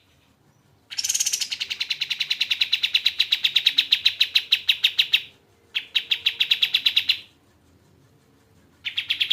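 Kapas tembak bird singing a fast rattling trill of evenly repeated high notes, about ten a second, in three bouts: a long one starting about a second in, a short one after a brief gap, and another near the end.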